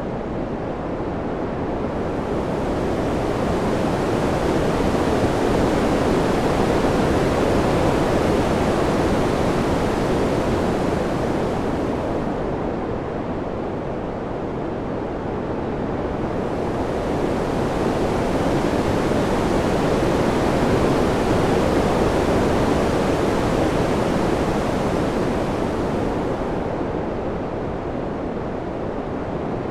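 Wind sound: a steady rushing noise that slowly swells and eases, rising and falling twice, with the hiss thinning out at each lull.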